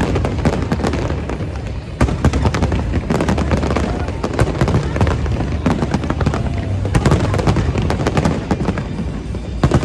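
Fireworks display: a dense, continuous run of bangs and crackling, with heavier bursts about two seconds in, around seven seconds in, and again near the end.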